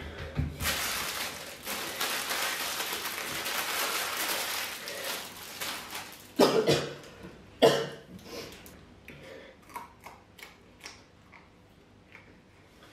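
A man coughing twice in quick succession, sharp and loud, from the burn of fresh bird's eye chilli. Before the coughs comes a long hissing noise lasting about five seconds, and after them a few faint clicks.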